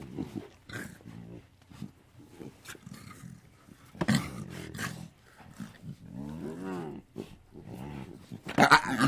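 Animal calls: a series of short calls, a louder one about four seconds in, a longer call rising and falling in pitch past the middle, and another loud call near the end.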